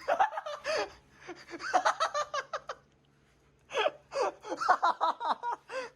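People laughing in fits of giggles, with a short pause about three seconds in before the laughter picks up again.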